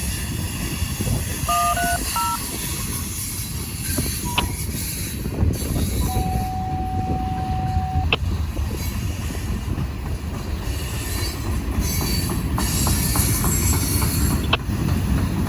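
Freight train rolling past, with a steady rumble of wheels on rail and a run of regular clicks from the wheels over rail joints in the last few seconds. Short electronic beeps and a held tone sound over it, from the radio scanner.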